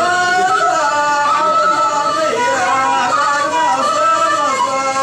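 Hadhrami dan singing: a voice drawing out a slow, winding melody in long held notes that bend up and down.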